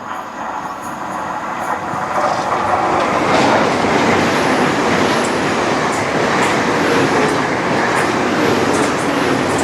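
Train passing close by at speed: the rail noise builds over the first three seconds, then stays loud and steady, with scattered sharp wheel clicks over the track.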